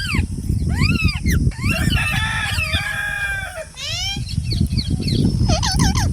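Green parrots screeching: a string of short, arching calls, a longer held squawk a couple of seconds in, and a quick run of calls near the end, over a low rumble on the microphone.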